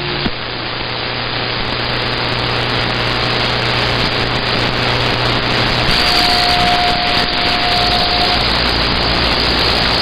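CB radio receiver hissing with static on an open channel, with a low steady hum under it for the first several seconds. About six seconds in, a steady whistle tone comes through for a couple of seconds.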